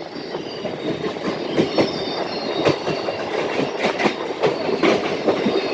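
Train wheels clattering over rail joints and points in a quick, irregular run of clicks and knocks over a steady rumble, with a faint thin high squeal from the wheels.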